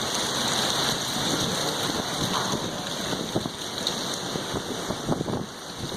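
Sandstorm wind blowing as a steady rushing noise, with gusts buffeting the microphone in the second half.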